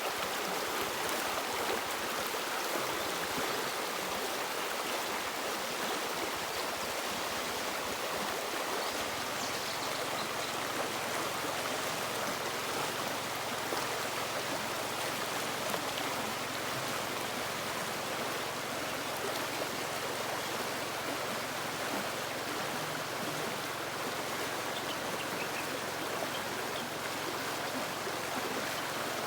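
River water running and rushing steadily over rocks, an even flowing noise. About nine seconds in, a faint low steady hum joins it.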